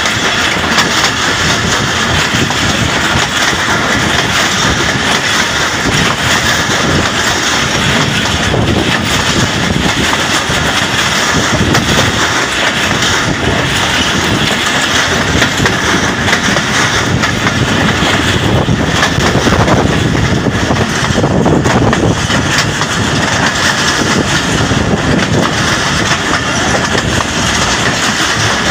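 Passenger train carriage running along the track, heard at an open carriage window: a loud, steady rumble and rattle of wheels on the rails.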